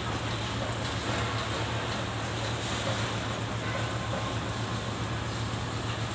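Electric arc welding on galvanized steel pipe: a steady crackling hiss over a constant low hum.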